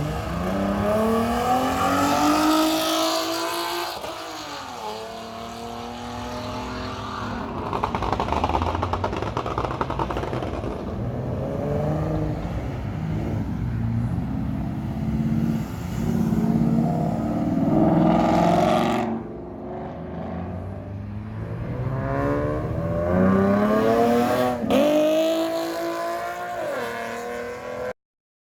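Car engines revving hard and accelerating, the engine note climbing in pitch and dropping back several times. The sound cuts off suddenly near the end.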